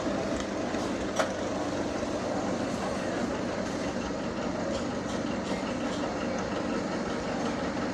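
An antique tractor engine running steadily, with one sharp click about a second in.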